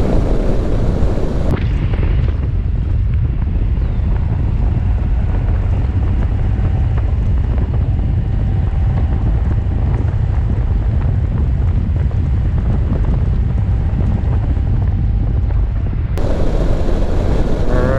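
Motorcycle riding at road speed: wind buffeting the microphone over a steady low rumble of engine and road noise.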